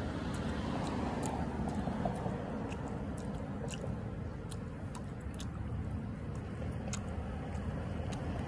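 A person chewing and biting cactus fruit close to the microphone, with scattered short sharp clicks, over a steady low rumble.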